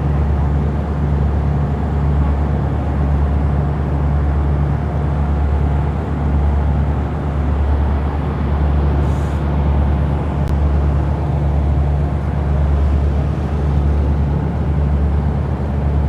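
Engine of a motor passenger riverboat running steadily under way, a continuous low drone with a slight regular pulse.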